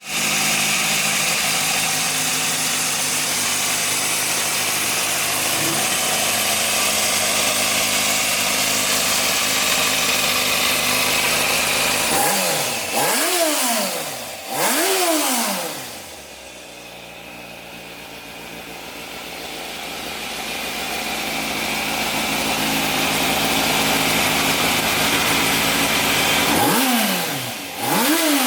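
Yamaha Fazer FZS600's 599 cc inline-four engine idling steadily, then blipped twice in quick succession about halfway through, each rev rising and falling back. It settles to a quieter idle that slowly grows louder, then is revved once more near the end.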